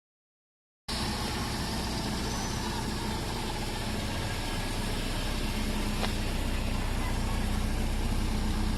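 Four-cylinder car engine idling steadily. It starts about a second in, after a brief silence, and slowly grows a little louder.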